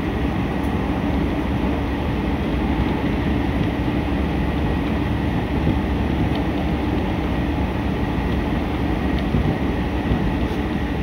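Steady running noise of a JR train at speed, heard from inside the passenger car: a constant low rumble and rush with no distinct wheel-clack rhythm.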